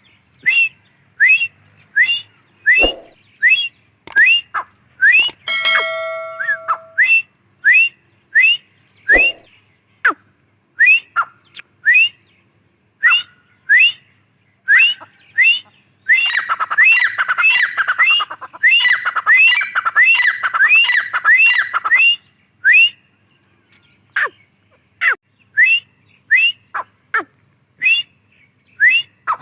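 Grey francolin calling: short, sharply rising whistled notes repeated about twice a second. From about sixteen to twenty-two seconds in they come thick and overlapping. A brief steady-pitched whistle-like tone sounds about five to seven seconds in.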